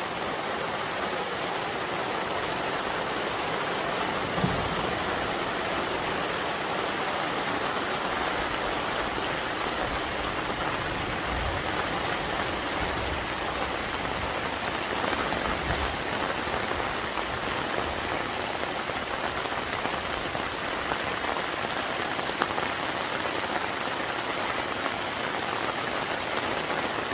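Heavy rain falling steadily, pattering on surfaces, with a few faint low thumps.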